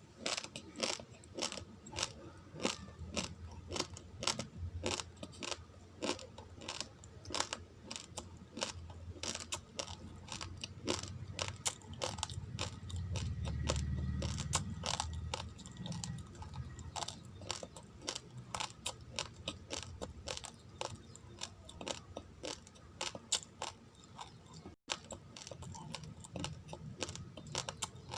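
A person chewing raw, uncooked rice grains close to the microphone: a steady run of sharp, dry crunches, a few each second, with a duller low sound about halfway through.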